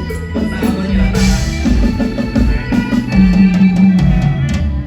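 Instrumental Thai lam phloen band music: a drum kit playing a busy beat over a steady bass line, with no singing.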